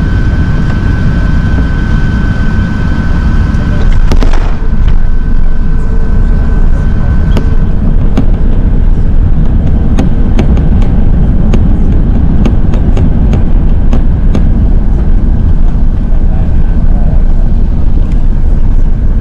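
Loud, steady low rumble of an Airbus A380, heard from inside the cabin, with a thin steady whine over it. About four seconds in the rumble surges suddenly and stays louder, and scattered sharp clicks and rattles follow.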